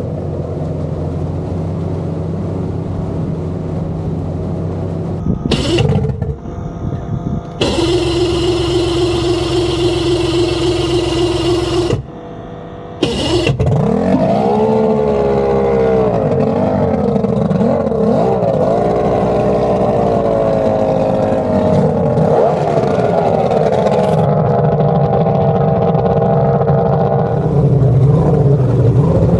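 Twin built 2.4-litre Mercury V6 outboard engines on a performance boat running, heard across several short clips: a steady engine note, then the engines revving up and holding a high, steady pitch at speed.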